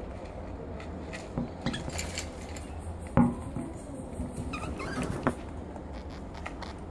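A budgie pecking and scuffling at a person's thumb: scattered light taps and scrapes, with a sharper knock about three seconds in.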